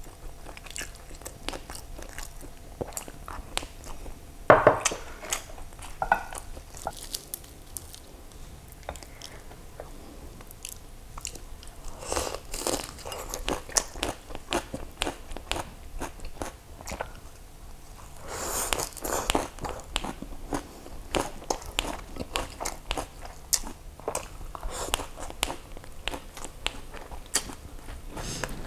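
A person chewing and crunching a mouthful of rice and raw leafy greens, with many small wet clicks. Louder crunching comes in spells about twelve and eighteen seconds in.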